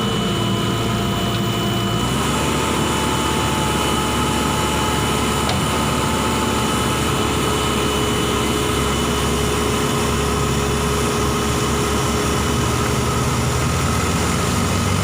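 A vehicle engine running steadily at idle, its pitch stepping up slightly about two seconds in.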